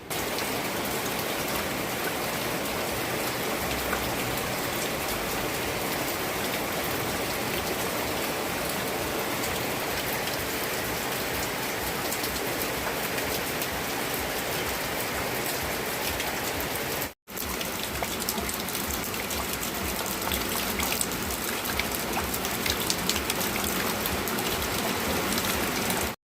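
Rain falling steadily, a dense hiss of many drops with fine ticks of individual drops hitting a surface. It cuts out for an instant about two-thirds of the way through, then resumes.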